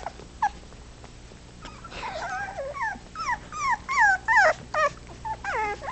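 Four-week-old puppies whimpering: a run of short, high-pitched cries that slide down in pitch, coming thick and fast over the last four seconds after a mostly quiet start.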